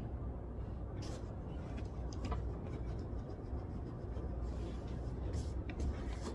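Library room ambience: a steady low hum with scattered faint clicks and rustles, like small desk sounds.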